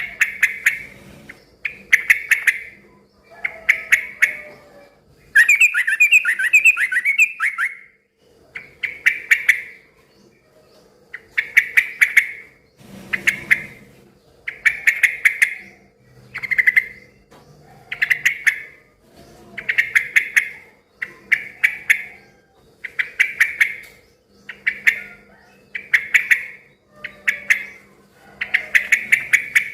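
Yellow-vented bulbul (trucukan) singing loudly, repeating a short bubbling phrase every one and a half to two seconds, with a longer run of quick chattering notes about six seconds in.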